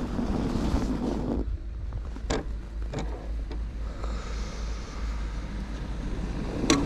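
Wind rushing over the microphone as an electric hub-motor two-wheeler rides through snow. It drops away about a second and a half in as the vehicle slows, with a few sharp clicks. Near the end a sudden loud noise comes as it pulls away: an unexplained sound on starting off that the rider suspects comes from a delaminated brake pad or a bearing in the motor.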